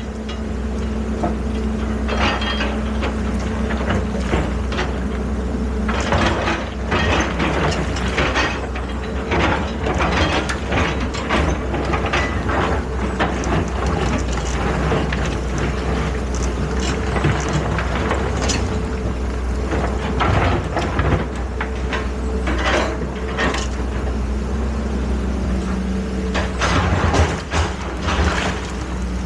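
Excavator diesel engine running steadily, with frequent knocks and clatter from the machine at work.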